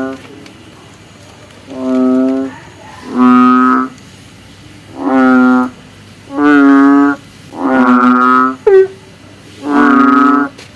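Frog known as kodok bangkong or blentung calling: about seven deep, steady-pitched calls, each under a second long and roughly a second apart, in rainy-season chorus.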